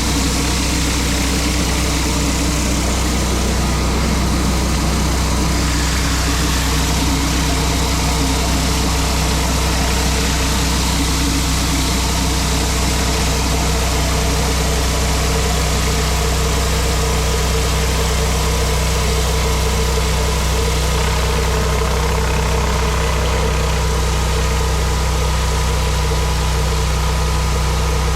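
Gas-engine pressure washer running steadily under load, its engine hum beneath a constant hiss of high-pressure water spraying on concrete.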